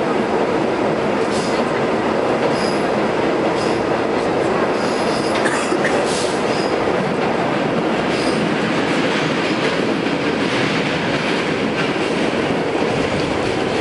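Westinghouse R68 subway car running at speed through the tunnel, heard from on board: a steady rumbling roar of wheels on rail, with brief high-pitched wheel squeals and clicks every second or two.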